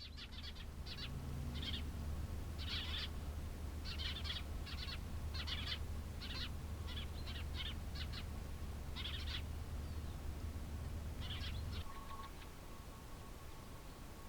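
Birds calling: many short chirps repeated irregularly, over a steady low rumble that fades about twelve seconds in.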